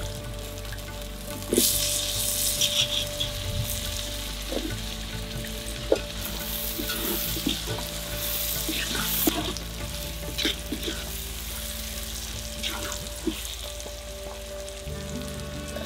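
Onion and tomato masala sizzling in oil in a clay pot, stirred with a wooden spatula that scrapes and knocks against the pot as brinjal and drumstick pieces are mixed in. A steady frying hiss runs under scattered scrapes and clicks, busiest a couple of seconds in.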